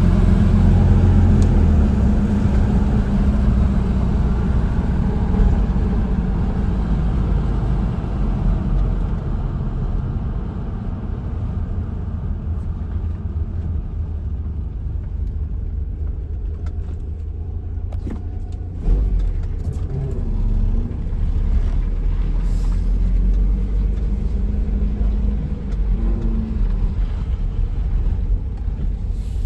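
Nissan 720 pickup engine running at idle, a steady low rumble that eases off a little over the first ten seconds. It briefly gets louder about two-thirds of the way through.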